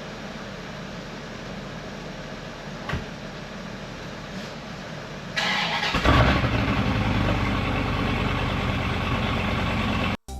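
A car engine starts about five and a half seconds in and runs steadily, after a few seconds of low steady hum; the sound cuts off abruptly near the end.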